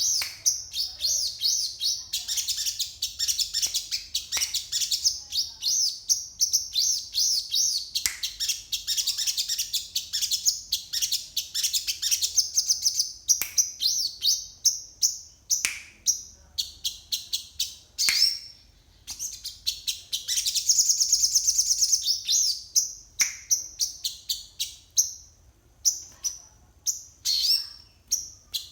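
A sogon songbird singing a fast, high song of rapid chirps and trills in quick varied phrases, broken by short pauses. The song is filled with learned phrases copied from other birds (isian).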